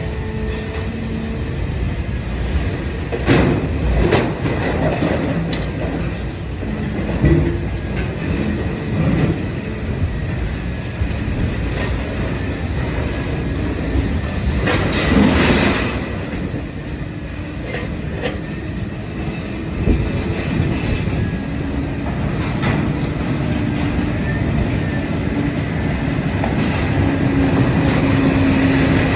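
Idromec T650 CLS scrap metal shear baler working: a steady hydraulic drone with scrap metal clanking and grinding as it is crushed. There are a few sharp clanks and a louder, longer crunch about halfway through.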